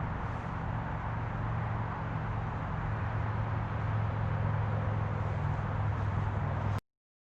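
Steady rushing noise of flowing creek water, with a low rumble under it, cutting off abruptly near the end.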